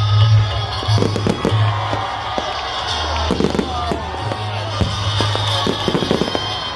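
Fireworks going off in a quick, irregular run of bangs and crackles, over loud music with a heavy, steady bass.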